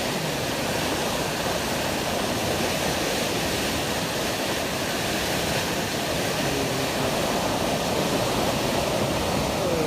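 Steady rushing of sea water and wind past a moving ship, an even hiss with no breaks.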